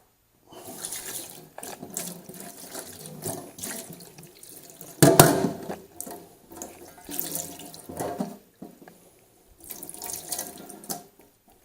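Water running and splashing in irregular spurts as the Lelit PL41EM espresso machine's group head is flushed through, with the loudest splash about five seconds in.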